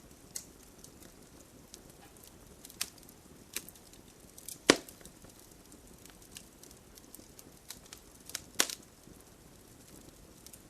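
Wood campfire crackling: scattered sharp pops and snaps over a soft steady hiss, the loudest pop a little under halfway through and another strong pair of snaps near the end.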